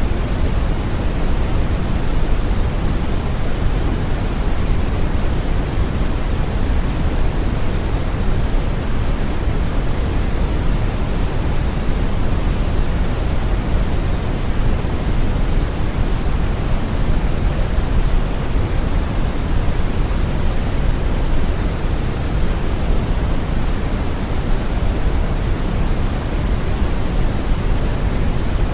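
Brown noise: a steady, deep rushing hiss, strongest in the bass and falling off toward the treble, with no change.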